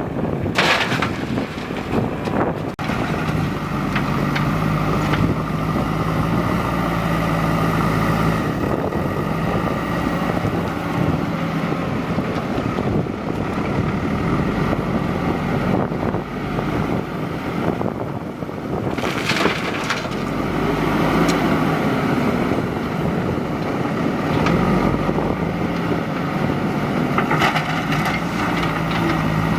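JCB 3DX backhoe loader's diesel engine running steadily under work. A few short clanks come near the start, in the middle and near the end.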